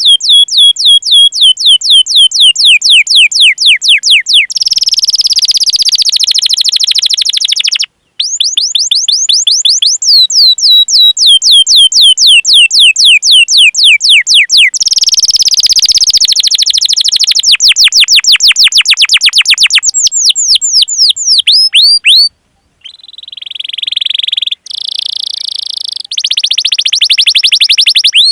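Domestic canary singing: long runs of quick, repeated downward-sweeping chirps, about four a second and faster in places, alternating with fast rattling rolls. There are a couple of abrupt breaks.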